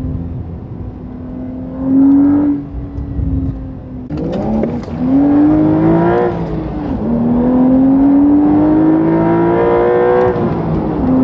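Porsche 911 (992) twin-turbo 3.0-litre flat-six through an aftermarket titanium exhaust, cruising steadily with a brief rev about two seconds in. From about four seconds in it accelerates hard, the pitch rising, shifts up about seven seconds in, then pulls again before dropping back near the end.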